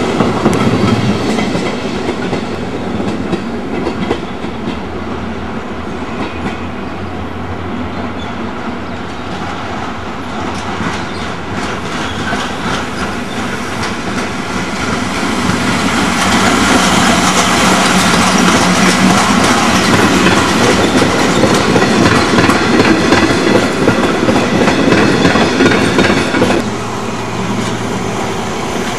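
Passenger trains running on the station tracks, an electric locomotive hauling coaches among them, wheels clattering over the rail joints and points. The clatter grows louder about halfway through and drops off suddenly near the end.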